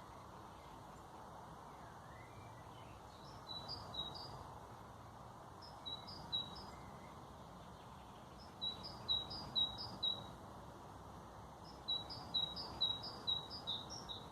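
A songbird sings four short phrases of quick, repeated high notes, a few seconds apart, over a steady background hiss.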